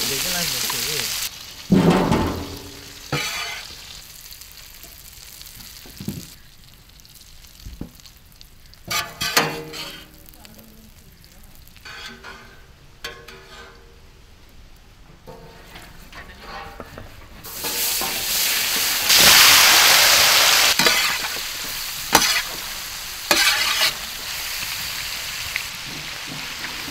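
Chicken wings frying in oil in a large iron pan, stirred with a metal ladle that scrapes and clatters against the pan. The sizzle swells loud for a few seconds about two-thirds of the way through.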